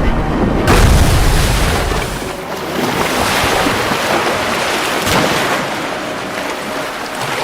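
Sea water washing and splashing, with a heavy low rumble in the first two seconds, then a steady hissing wash.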